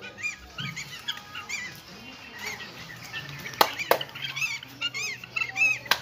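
Birds chirping: many short, high calls rising and falling in pitch, with sharp clicks about three and a half, four and six seconds in, over a low steady hum.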